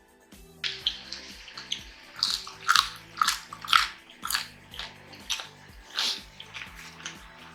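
Loud, crunchy close-up chewing of crispy fried pork, in irregular bursts about two a second, starting about half a second in, over background music.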